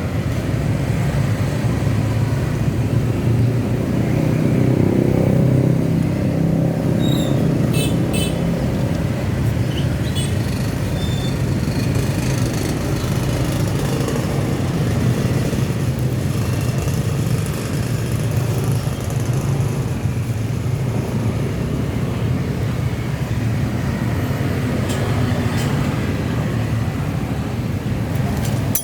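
A motorcycle engine idling steadily, with a few light metallic clinks about a quarter and a third of the way through.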